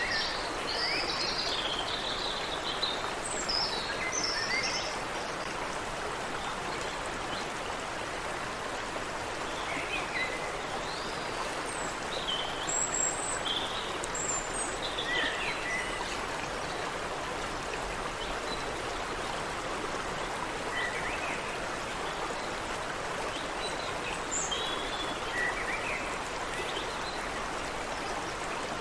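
Creek water running steadily, with small birds chirping and singing over it in scattered short phrases: a burst of calls at the start, more in the middle, and a few near the end.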